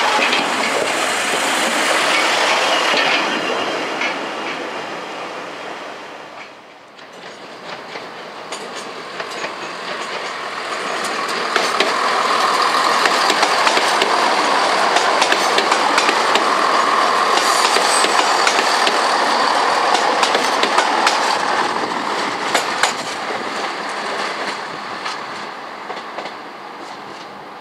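Trains passing on the railway. One fades away, then about eight seconds in another approaches and runs past, with the clickety-clack of its wheels over the rail joints, and fades out near the end.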